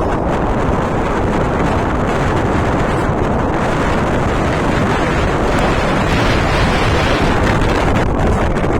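Steady wind buffeting the microphone, a loud even rush with no distinct events.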